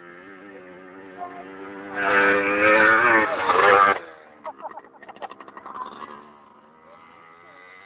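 Motorcycle engine running with a steady hum, then swelling loud for about two seconds with its pitch climbing, before dropping back to a quiet steady hum.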